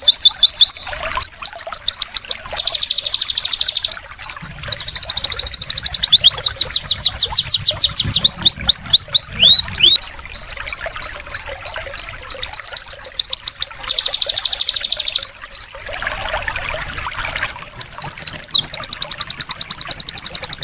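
White-eye (pleci) singing loudly in long rapid trills of fast repeated high notes, broken by short downward-sweeping calls and a run of quick chip notes about halfway through. A faint trickle of water runs underneath and is heard alone briefly near the end.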